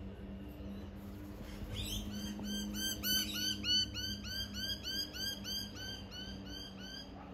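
A bird calling a long, rapid series of identical sharp notes, about four a second, beginning about two seconds in, over a steady low hum.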